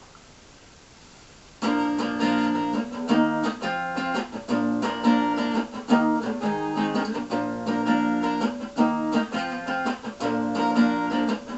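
Acoustic guitar strummed in a steady rhythm of chords, starting about a second and a half in after a faint hiss: the song's instrumental intro.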